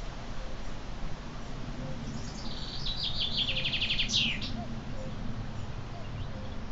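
A songbird sings one phrase about two seconds in: a few high notes falling into a fast trill, ending in a sharp downward sweep.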